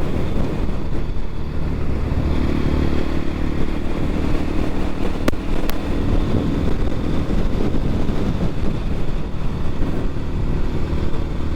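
Dirt bike engine running as the bike rides along, with heavy wind rumble on the microphone; two short sharp clicks come a little past halfway.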